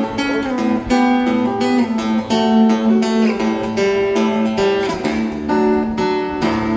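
Acoustic guitar played live without singing: a quick run of picked notes over a held low note, the instrumental ending after the song's last verse.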